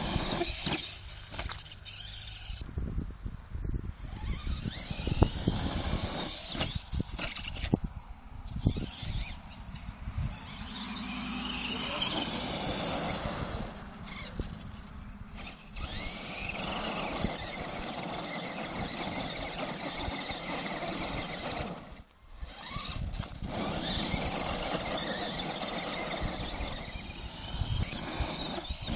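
Radio-controlled monster truck's motor whining, its pitch rising and falling over and over as the truck speeds up and slows down, with scattered knocks and clatter in the first half.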